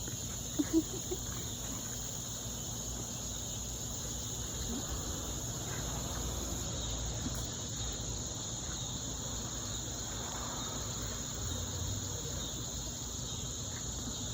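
A steady, unbroken high-pitched drone of insects, such as crickets, over a low steady background hum, with a brief faint voice sound about a second in.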